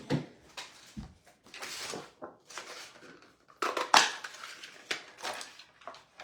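Cardstock and paper pieces being handled on a craft table: a series of short rustles, slides and light knocks, with a louder clatter of pieces about four seconds in.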